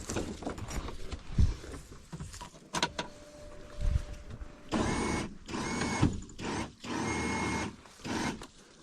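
Knocks and clatter of metal gear being handled, then a small electric motor whirring in about four short bursts in the second half.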